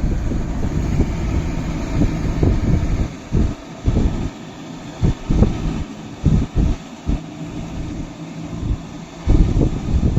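Kubota MU5502 tractor's four-cylinder diesel engine running steadily, with wind buffeting the microphone in repeated low gusts.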